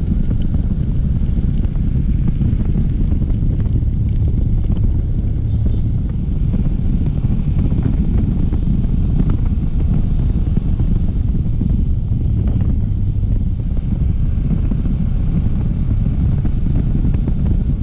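Wind rushing and buffeting over the microphone while riding a small motorcycle, with the engine running steadily underneath.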